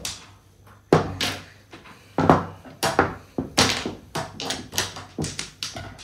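Mahjong tiles clacking down on the table: a quick, irregular run of sharp knocks, about a dozen in six seconds.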